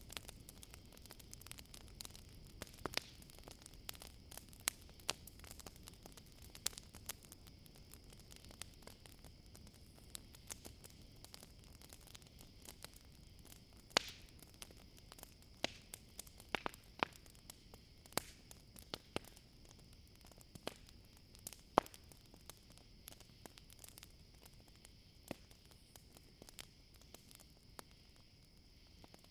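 Wood campfire crackling, with irregular sharp pops and snaps of varying strength, over a steady high-pitched trill of crickets.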